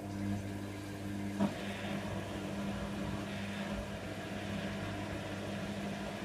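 Hoover Nextra HNWL7146 washer dryer running mid-programme with a steady mechanical hum. A click comes about a second and a half in, and after it a hiss rises over the hum.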